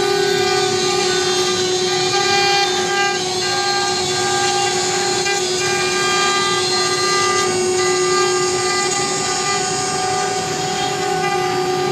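CNC router spindle cutting MDF board: a loud, steady whine with overtones over a constant cutting noise.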